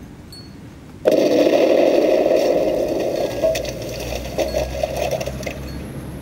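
Small electric drive motors and gearbox of an RC tank whirring, starting suddenly about a second in and running steadily for several seconds before easing off.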